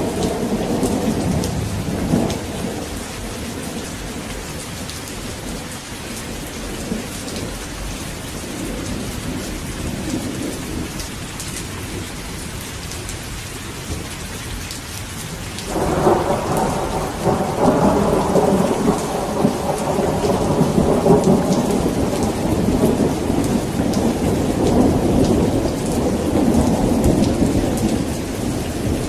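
Steady heavy rain with rolling thunder. A rumble dies away in the first few seconds, then a new peal breaks in suddenly about halfway through and keeps rolling, louder than the rain.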